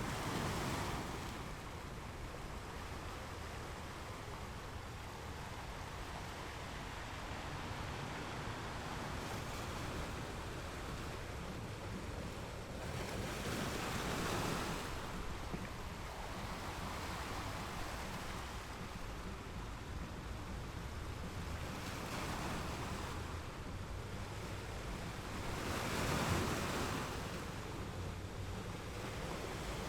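Ocean waves breaking on rocks: a steady wash of surf, with a wave crashing and swelling louder every few seconds.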